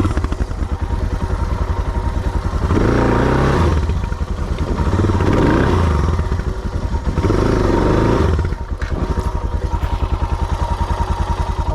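Suzuki DR650's single-cylinder engine revving in three surges, then dropping back to a steady idle near the end, as the bike is stuck in a hole.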